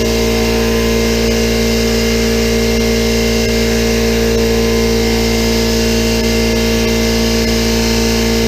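Central Pneumatic electric air compressors running steadily under load, pumping up their tanks: a constant motor hum and pump clatter that does not change.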